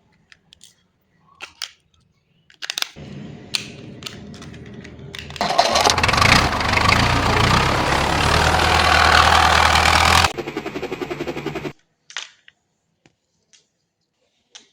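Toy vehicle's electronic engine sound effect: a hum, then a loud engine sound starting about five seconds in and running for about five seconds, ending in quick pulses before it stops. Scattered clicks of the toy being handled come before and after.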